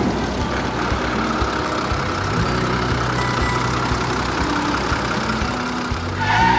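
A vehicle engine running steadily, a low even hum with faint ticking.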